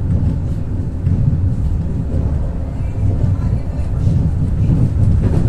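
Ivolga 4.0 electric commuter train running at speed, heard from inside the carriage: a steady low rumble of wheels on the rails and running gear.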